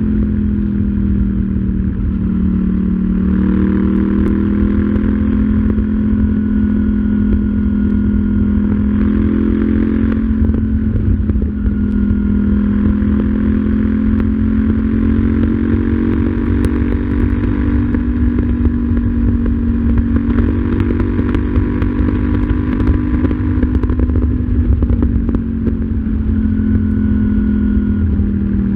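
KTM 790 Duke's parallel-twin engine running on the move, its pitch falling and rising with throttle and gear changes: it drops about a second in and again around ten seconds, climbs slowly through the middle, and drops again near the end. A steady low rush of wind runs under it.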